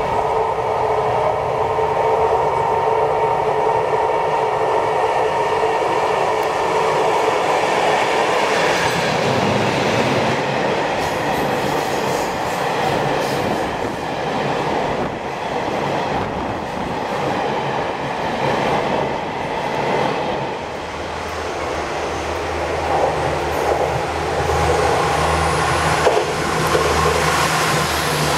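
Taiwan Railways train running past on the rails, a loud steady rumble of wheels on track. A steady high squeal rings over the first several seconds and fades, and a deeper hum rises near the end.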